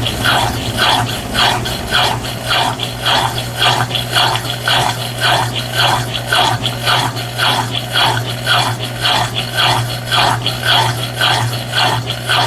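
Brastemp BWT12 top-loading washing machine running in the last stage of its cycle: a steady motor hum under a rhythmic rubbing swish, about twice a second.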